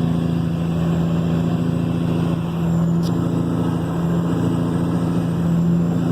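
Cat 3406E six-cylinder diesel in a Kenworth W900 running at a steady cruise through 8-inch straight pipes, a deep, even exhaust drone.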